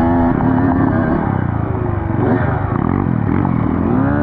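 Dirt bike engine being ridden, its pitch rising and falling repeatedly as the throttle opens and closes and the gears change, over a steady low rumble.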